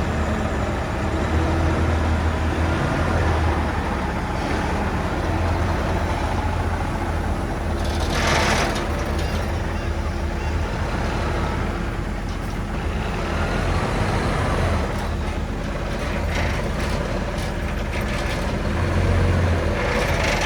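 Heavy diesel earthmoving machinery running with a steady low rumble, with a short burst of hissing about eight seconds in and another near the end.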